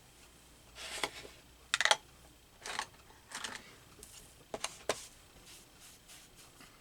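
Paper and craft supplies being handled at a desk: a series of short rustles and taps, with two sharp ticks about two thirds of the way through.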